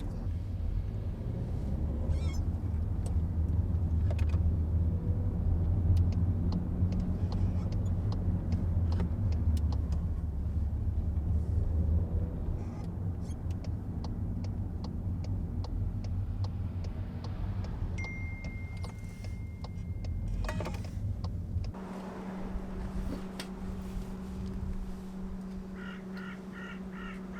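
Low road and engine rumble inside a moving SEAT Leon, with a run of regular clicks in the middle. About three-quarters of the way through the rumble stops suddenly and a steady hum remains.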